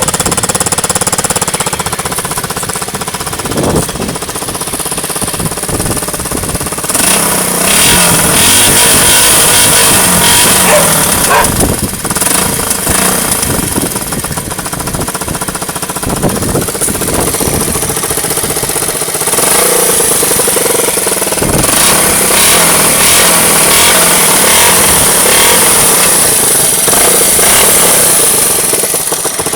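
Suzuki DR125's single-cylinder four-stroke engine running through its original exhaust, picked up by a phone microphone. It gets louder twice, for about five seconds a quarter of the way in and for most of the last third, settling lower in between and easing off near the end.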